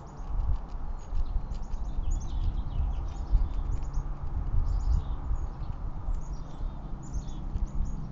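Small birds chirping in quick, repeated bursts, over a loud, uneven low rumbling with knocks close to the microphone.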